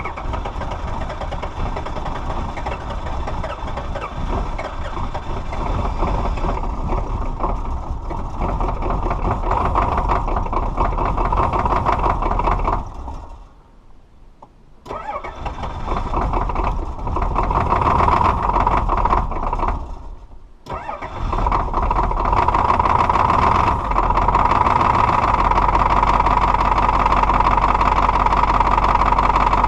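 Diesel engine cold starting and running. The engine sound drops away briefly twice, about halfway and about two-thirds of the way through, each time picking up again and running louder afterwards.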